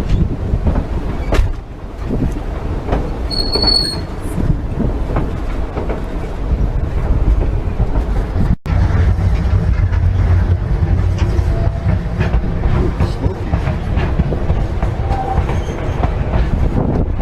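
Narrow-gauge passenger train car running on the rails: a steady low rumble and clatter of wheels over the track, with a short high wheel squeal about three seconds in. The sound breaks off for an instant just past halfway.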